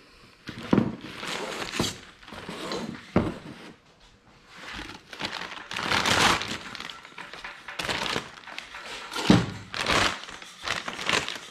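Packaging crinkling as a new diesel piston and cylinder sleeve kit is unpacked by hand, with a few sharp thunks as the heavy parts are handled and set down.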